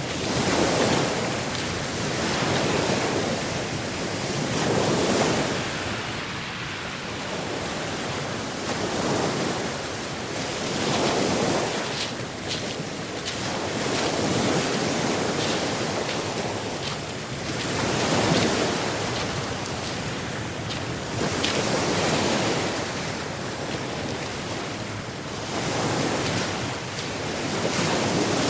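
Atlantic Ocean surf washing onto the shore, swelling and falling back every few seconds, with a few faint clicks a little before the middle.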